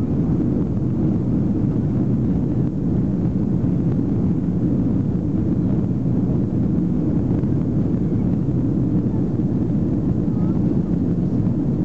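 Airbus A330-200 cabin noise during the climb after takeoff: a steady, low rush of jet engine and airflow noise heard from inside the passenger cabin.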